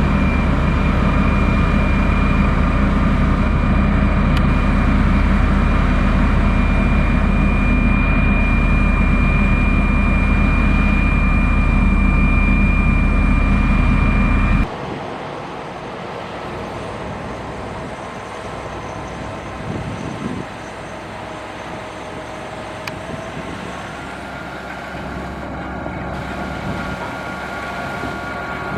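Heavy motor grader's engine running steadily under load, a deep rumble with a steady high whine. About halfway through it drops abruptly to a quieter, more distant engine sound.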